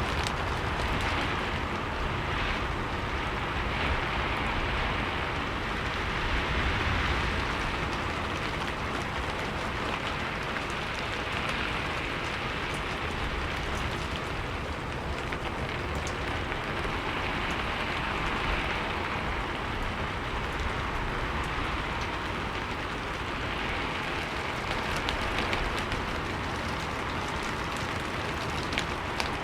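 Steady rainfall, an even hiss of drops with scattered small ticks of drops striking a surface, swelling and easing slightly every few seconds.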